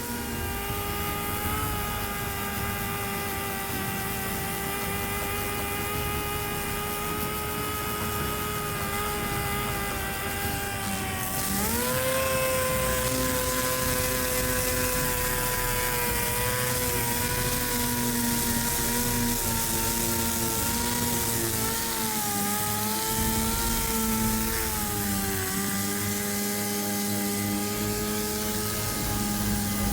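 Electric power sander running steadily with a whine whose pitch wanders, jumping up about a third of the way in with more hiss and then slowly drifting back down.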